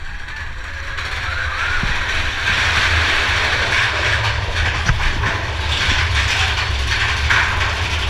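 Mine-train roller coaster running along its track: a steady low rumble from the wheels under a rushing, rattling noise that builds over the first couple of seconds and then holds.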